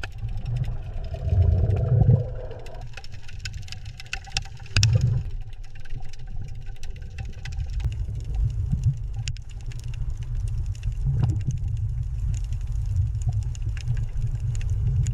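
Low, steady engine-like rumble with scattered crackling clicks, swelling louder about two seconds in and again about five seconds in.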